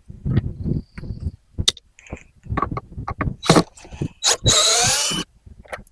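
Power drill run in a short burst to back out fasteners while taking apart an RV's rooftop air conditioner, its whine rising in pitch a little over four seconds in. Scattered clicks and knocks of handling come in between.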